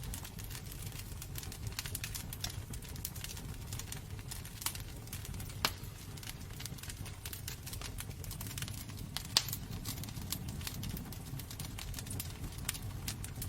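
Wood fire burning in a fireplace: irregular crackles and pops over a low, steady rumble of the flames, with a sharper pop about nine seconds in.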